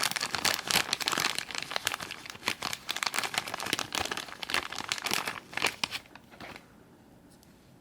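Plastic packaging crinkling and rustling as it is handled, in quick irregular crackles that stop about six seconds in.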